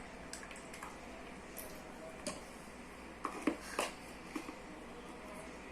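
Soft squishing and scattered light clicks of slime being stirred in a pot with a small spoon, a few louder taps about three and a half seconds in.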